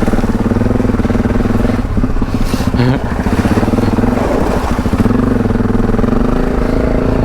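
Parallel-twin adventure motorcycle engine running under throttle off-road. Its note dips briefly about two and three seconds in, then picks up again.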